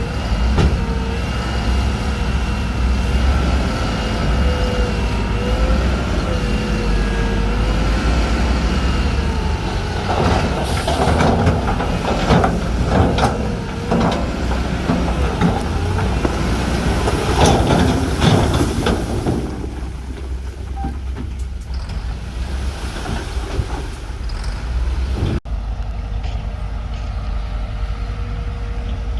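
Heavy diesel earthmoving machinery (bulldozers and dump trucks) running under load, its engine pitch wavering. A long stretch of clanking and rattling comes in the middle, and near the end the sound changes abruptly to a steadier engine drone.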